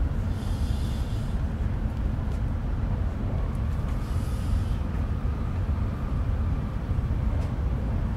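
Cabin noise of an E5 series Shinkansen running at speed: a steady low rumble, with two brief hisses about half a second and four seconds in.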